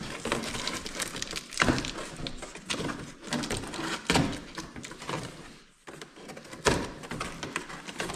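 Heavily taped cardboard box being cut and pried open by hand: scraping, tearing and crinkling of cardboard and tape, with a few sharp knocks.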